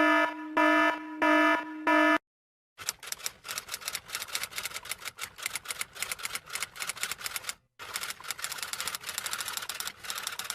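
Four short buzzy beeps of one pitch, like an alarm buzzer, then rapid typing clicks on a typewriter or keyboard, with a brief pause in the middle.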